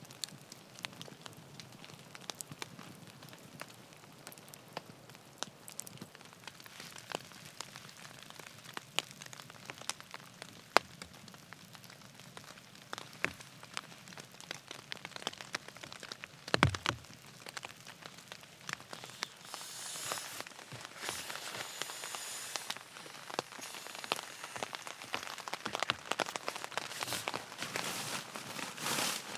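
Rain pattering on a tarp mixed with a crackling campfire: scattered sharp ticks over a soft steady hiss, with one heavier thump about halfway. A louder rustling hiss comes and goes in the last third.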